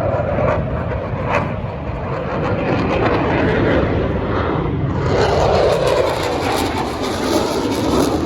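Engine noise of an airplane in flight, a steady rushing sound that swells louder and brighter about five seconds in as the aircraft comes closer.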